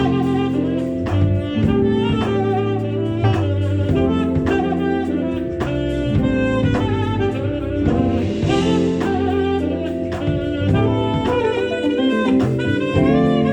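Live smooth-jazz band playing: a saxophone carries held, pitched melody notes over a steady drum-kit beat.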